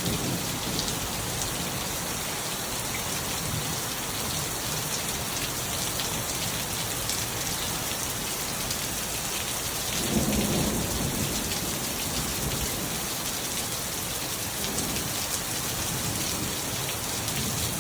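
Heavy thunderstorm rain falling steadily in a dense hiss of drops. A low rumble of thunder swells about ten seconds in and fades over a couple of seconds.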